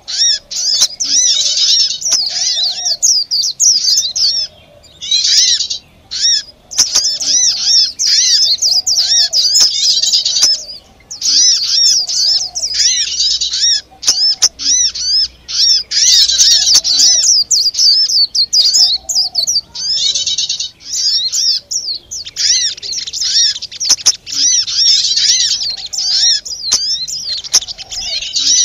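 Bird-lure recording of many small birds calling noisily at once: dense, rapid, overlapping high chirps and twitters with a few brief breaks, and a softer lower call repeating underneath. The busy agitated chorus is the kind played to draw small birds in to a trap.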